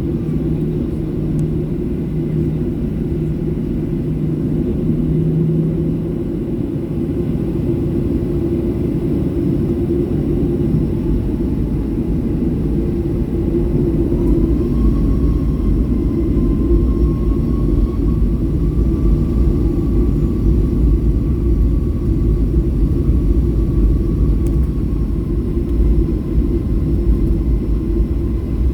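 Boeing 737 jet engines and airframe rumble heard from inside the cabin during takeoff. About halfway through, the rumble grows louder and the engines' whine rises and holds as thrust builds.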